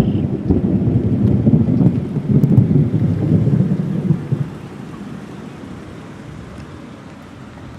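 Rolling thunder: a deep rumble that swells in the first moments, holds for about four seconds, then fades to a quieter steady low noise.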